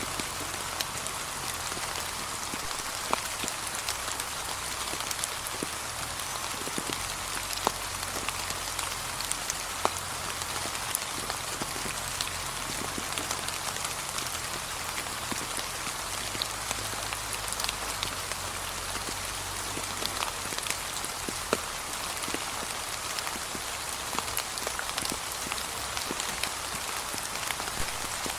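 Gentle, steady rain falling on fallen autumn leaves, a constant patter with many single drops tapping close by.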